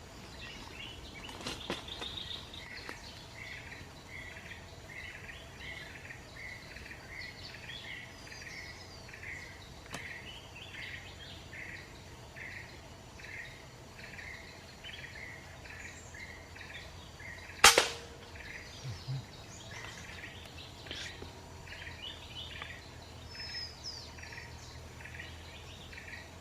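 A single sharp air-rifle shot about two-thirds of the way through, over night insects chirping in a steady pulsing rhythm of about two chirps a second.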